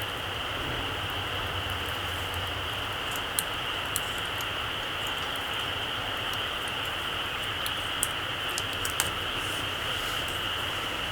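Small wood campfire burning low, with a handful of sharp crackles: two about three to four seconds in and three more around eight to nine seconds, over a steady background hiss.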